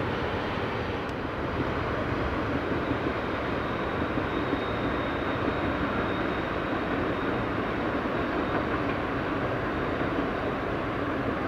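Freight train rolling by: steady rumble of railroad cars on the track, with a faint thin high squeal for a few seconds in the middle.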